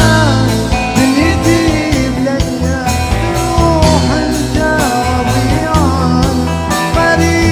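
Instrumental break in a live Gulf Arabic band song: a melody that slides between notes over steady percussion and a heavy bass line.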